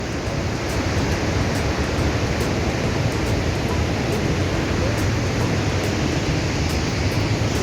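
Steady rushing noise of the Iguaçu Falls' water crashing down, a constant roar with no breaks.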